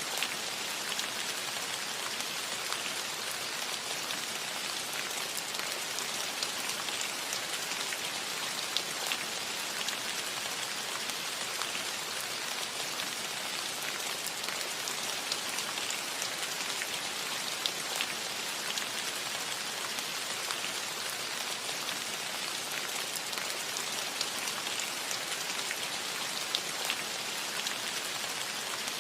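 Steady rain falling on a roof: an even hiss with scattered sharper taps of single drops.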